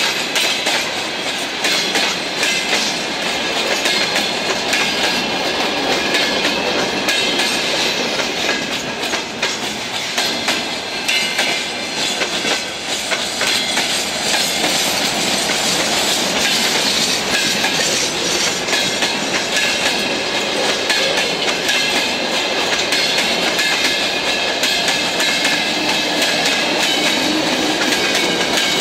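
Freight train wagons, tank cars and open gondola cars, rolling steadily past. The wheels clatter over the rail joints with a continuous rumble.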